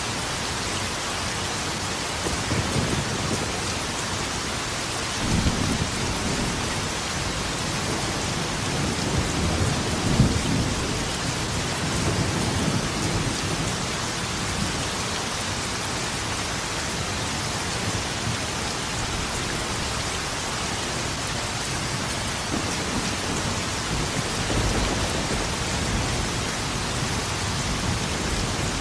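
Steady heavy rain with rolling rumbles of thunder. Several low rumbles swell and fade, the loudest a little under halfway through.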